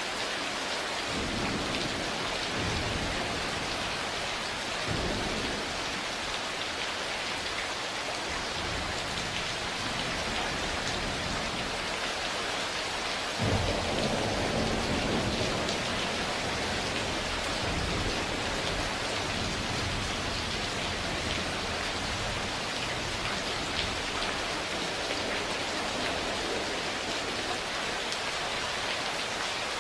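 Steady heavy rain with rolling thunder: low rumbles a little after the start and about five seconds in, then a louder crack of thunder about halfway through that rumbles on and fades over several seconds.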